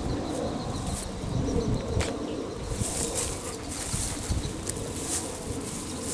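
Wind buffeting the microphone in uneven gusts, with faint high chirping of insects or birds behind it.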